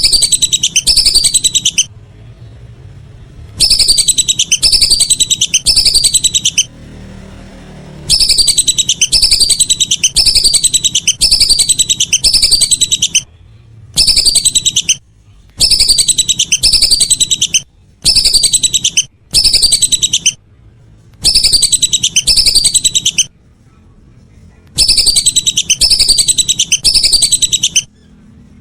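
Whistling duck calls: quick repeated high whistles, each falling in pitch, in loud bursts of one to three seconds that start and stop abruptly, with short silent gaps between bursts.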